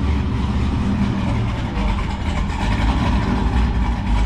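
Straight-piped Detroit Diesel Series 60 inline-six in a Newell motorhome running at low speed, a steady deep exhaust rumble.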